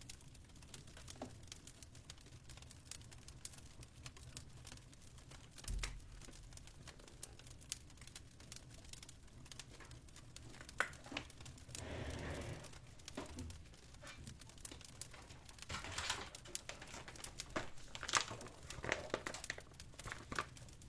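Fireplace crackling: a steady spray of small pops and ticks, with louder spells of crackle and rustle about halfway through and again near the end.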